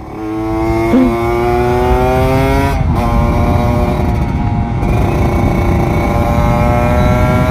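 Kawasaki Ninja 150 RR's two-stroke single-cylinder engine accelerating, its pitch climbing steadily, with an upshift about three seconds in and then a second, slower climb in the next gear.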